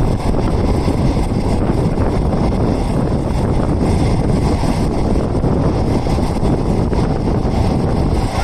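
Passenger train running at speed, heard from inside an old non-air-conditioned green coach: a steady, loud rumble of wheels on rail mixed with wind rushing in, with no break or change.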